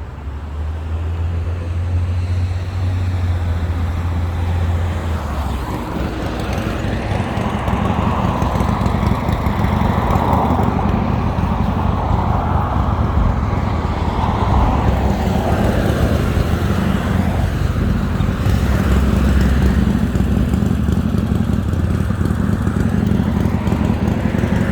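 Road traffic on a busy street: a steady low rumble of engines and tyres, with a vehicle swelling up and passing by about midway through.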